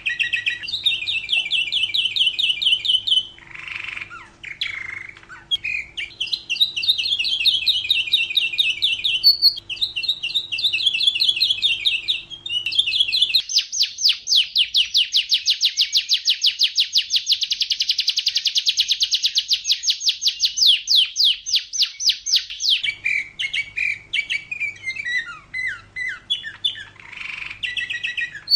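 Domestic canary singing a run of rapid trills. Near the middle comes one very fast, even trill that lasts about nine seconds.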